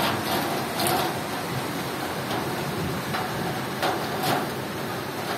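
Steady rain falling, an even hiss, with a handful of short light taps scattered through it.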